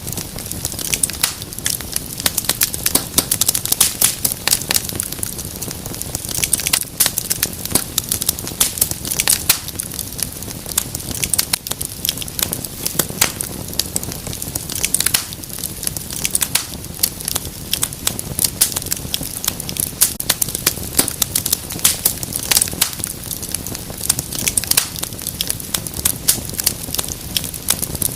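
Wood fire crackling in a fireplace: many irregular pops and snaps over a steady low sound of burning.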